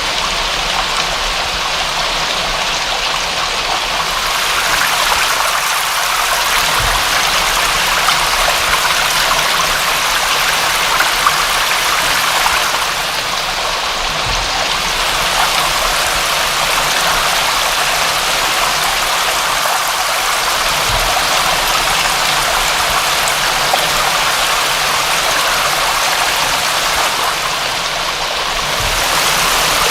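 Steady rain: a dense, even hiss of falling drops that eases slightly twice.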